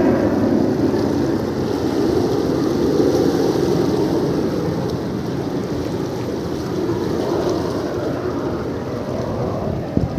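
Sea waves washing over rocks, with wind buffeting the microphone: a steady rushing that eases a little, and a brief knock near the end.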